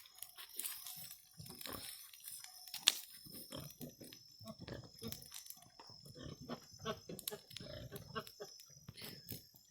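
A sow grunting in a series of short, low grunts, more of them in the second half. Sharp crackling clicks are scattered throughout, the loudest about three seconds in.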